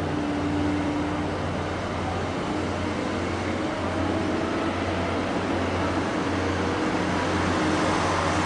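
A ship's engines running with a steady low drone and a hiss of noise above it.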